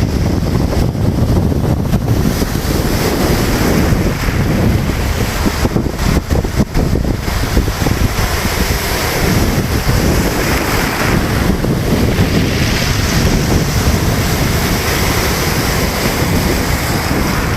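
Sea surf: waves breaking and washing continuously, a loud steady rush, with wind buffeting the microphone and adding a low rumble. The hiss of the wash swells about two-thirds of the way through.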